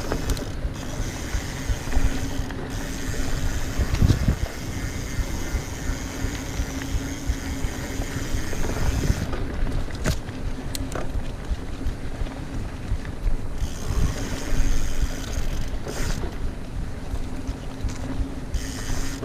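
Mountain bike rolling fast along a dirt trail: tyres rumbling over the ground with a few harder bumps, a steady hum, and wind on the microphone.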